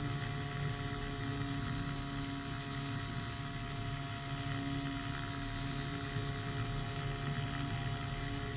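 Small two-stroke engine of a powered hang glider droning steadily in flight, with wind rush over it.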